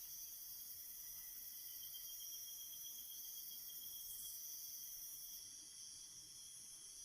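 Night ambience of crickets chirping steadily and faintly, with one pulsing, higher trill standing out through the middle.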